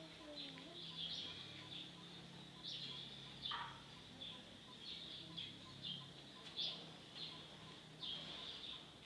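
Small birds chirping, short high chirps coming irregularly a few times a second, some sliding down in pitch, over a faint steady low hum.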